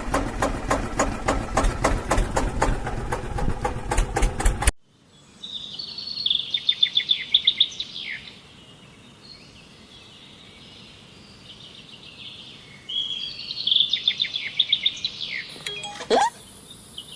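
Rapid, steady mechanical rattling for about four and a half seconds, then an abrupt cut to outdoor quiet with birds chirping: two bouts of quick, high trilled chirps.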